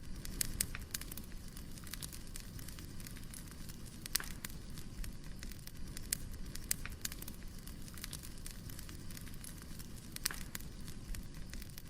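Firewood burning, with irregular sharp pops and crackles over a low steady rumble.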